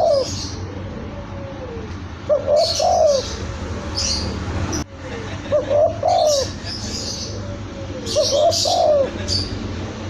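Spotted dove (tekukur) cooing: three short phrases of rising-and-falling coos, about three seconds apart. High chirps of smaller birds come in with each phrase, and there is a single click near the middle.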